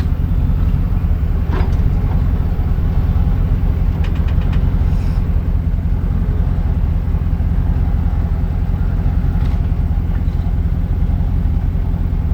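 A truck engine running steadily at idle with a constant low hum, plus a few faint clicks about four seconds in.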